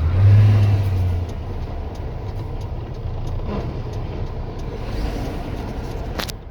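Heavy truck's diesel engine running, heard from inside the cab with road noise, its low hum swelling in the first second. A sharp click near the end.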